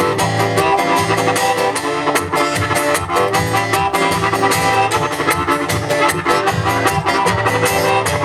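Band playing an instrumental passage with a steady beat, with no singing.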